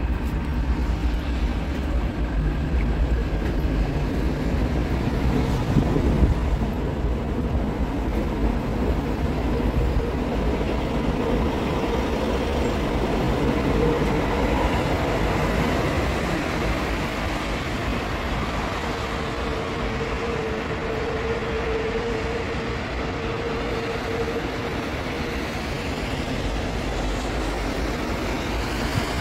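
A light-rail train running alongside the platform as it pulls out: a steady rumble with a faint humming whine through the middle.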